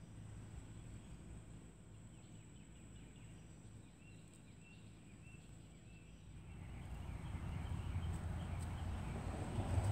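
Quiet outdoor ambience with a bird giving a short run of high chirps. About two-thirds of the way through, a louder low rumbling noise rises and stays.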